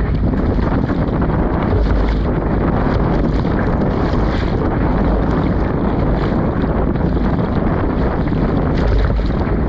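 Strong wind buffeting the microphone, a loud, steady rumble with gusts, over water slapping around a small inflatable boat.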